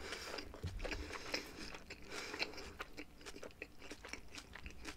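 A person chewing a mouthful of Turkish pizza close to the microphone: irregular small crunches and clicks of biting and chewing.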